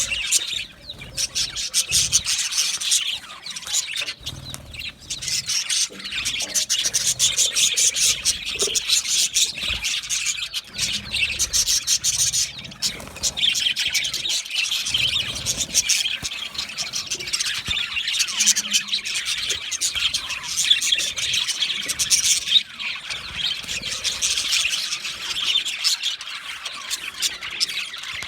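A flock of budgerigars chirping and chattering all at once, a dense, continuous overlapping stream of rapid high chirps from many birds.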